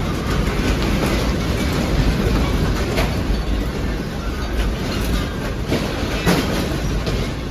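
Loud, continuous low rumbling and rattling of a building shaking in an earthquake, with a few sharp knocks about three seconds in and again near the end.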